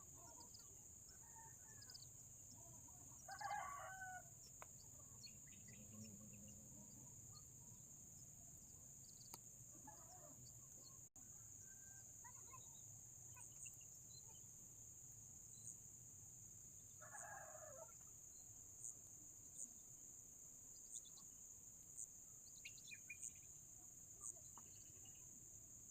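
A rooster crowing twice, faint and distant, each crow about a second long, over a steady high-pitched buzz with scattered short chirps.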